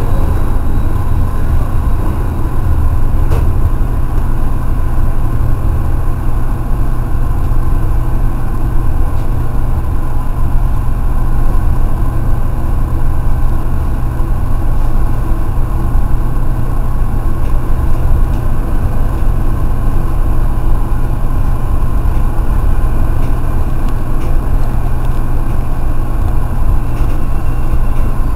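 Steady low rumble of a Sanyo 5000 series electric train heard from inside, behind the cab, as it runs slowly along an underground station platform.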